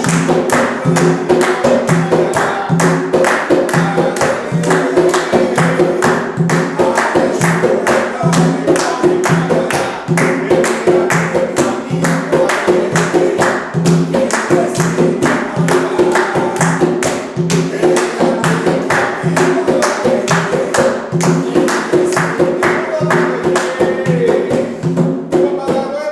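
Umbanda ponto (sacred chant) for Exu sung by a group over a fast, steady beat of percussion and hand clapping.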